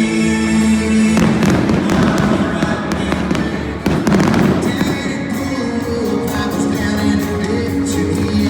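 Fireworks going off over loud music: two big booming bursts, about a second in and about four seconds in, then rapid crackling pops through the second half.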